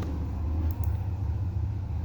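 Steady low rumble of background noise, with two faint clicks about three-quarters of a second in.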